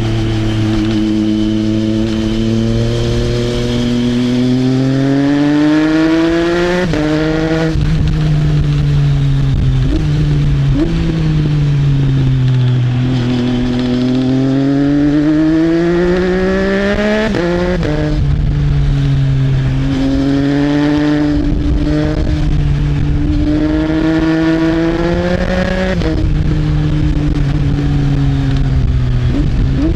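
Triumph Trident 660's inline-three engine through an Arrow exhaust, ridden through the gears. The engine note climbs, then drops sharply at each quickshifter upshift, several times, easing off and rising again in between. Wind noise rushes underneath.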